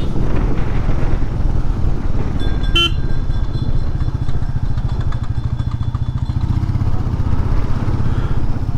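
Royal Enfield Meteor 350's single-cylinder engine running steadily under way, its low, fast exhaust pulse throughout. A vehicle horn sounds briefly about two and a half seconds in.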